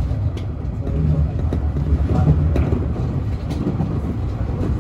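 Nankai 1000 series electric train running at speed, heard from inside the car: a steady low rumble of wheels on rail with faint clicks about once a second. It gets a little louder after about a second, as an oncoming train passes close alongside.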